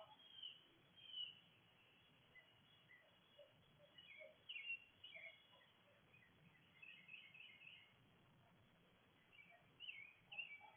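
Faint wild songbirds chirping: scattered short, high calls, some in quick little runs, over a quiet background hiss.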